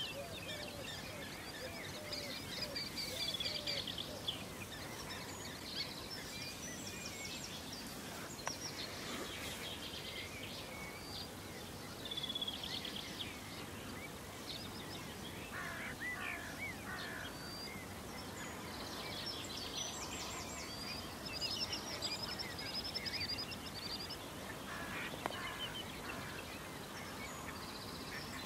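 Several birds calling: short, rapid trills and sharp harsh notes that come in bursts over steady background noise.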